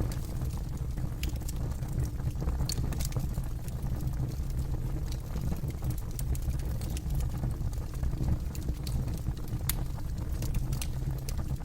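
Campfire crackling: irregular sharp snaps and pops of burning wood over a steady low rumble.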